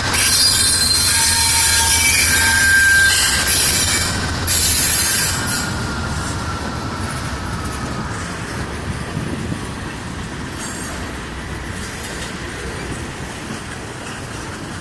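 Freight train cars rolling along the track with their wheels squealing against the rail in thin high tones. The squeal dies out over the first several seconds, and the rumble then slowly fades as the train moves away.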